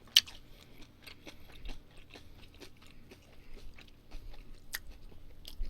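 A person chewing food close to the microphone: scattered small wet mouth clicks and smacks, with a sharper click just after the start.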